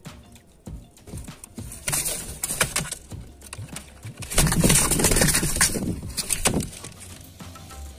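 Pigeon flapping and scrabbling inside a cardboard box trap: irregular knocks and rustling bursts, loudest past the middle.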